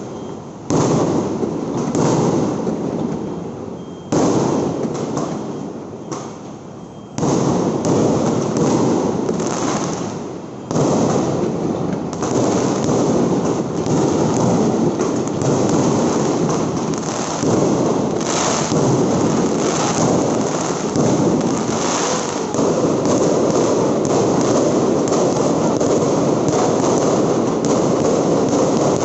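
Fireworks going off in a dense, unbroken barrage of bangs, with fresh loud onsets about one, four, seven and eleven seconds in, then running on without a break.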